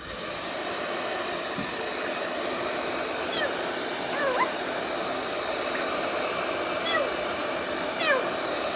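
Hairdryer running steadily on a cool setting, blowing on a parrot. About four short gliding calls from the parrot sound over it, two close together near the middle and two more later on.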